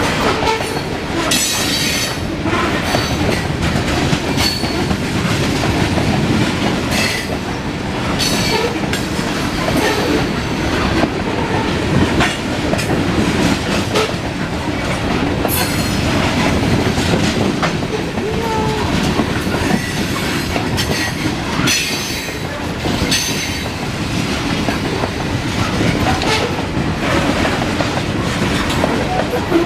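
Coal train's loaded hopper cars rolling steadily past, steel wheels clacking over rail joints, with short bursts of wheel squeal now and then.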